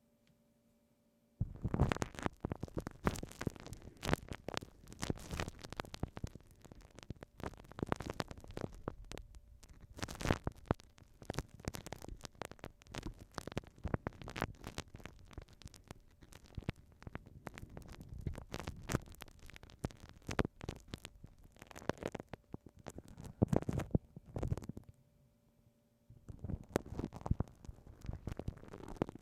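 Glue stick rubbed and dabbed over a binaural microphone's ear, giving dense sticky crackling and clicking. It starts about a second and a half in, pauses briefly near the end, then resumes.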